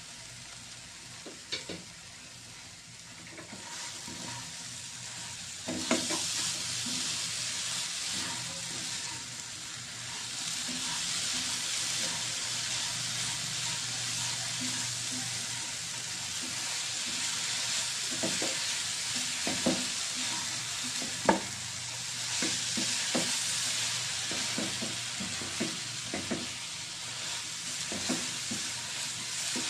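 Sugar mixture sizzling in a hot pan as it is stirred, with the spatula scraping and tapping the pan now and then. The sizzle is fainter at first and grows louder about six seconds in.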